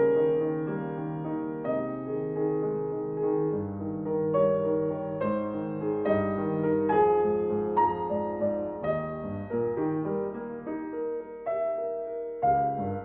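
Solo piano playing a slow classical piece, single notes and chords struck and left to ring.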